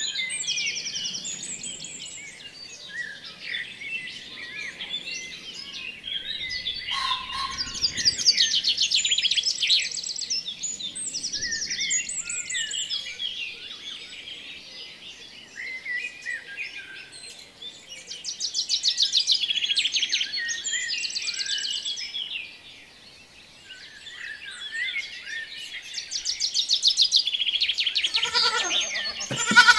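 Many small birds chirping and trilling, growing busier and louder every several seconds with quick rattling trills. A bleat breaks in right at the end.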